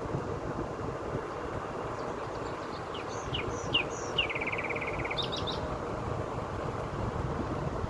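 Steady rush of wind and road noise from a moving car. About halfway through, a songbird calls: a few quick high chirps, then a short fast trill.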